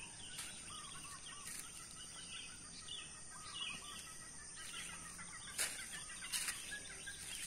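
Small birds chirping over faint outdoor background noise, many short calls overlapping, with a couple of light clicks near the end.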